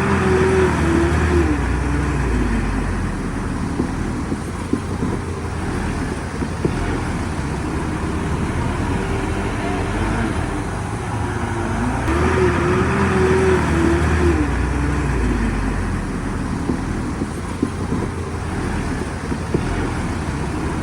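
Heavy diesel engine of earthmoving machinery working steadily, its pitch rising, holding and falling back twice about twelve seconds apart as it comes under load.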